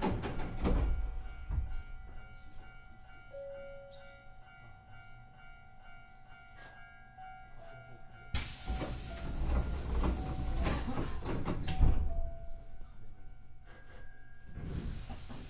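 Hankyu 8000-series electric train standing at a station: faint steady electrical hum with scattered clicks and knocks. About eight seconds in comes a sudden loud hiss of released air lasting about three seconds, and another hiss starts near the end.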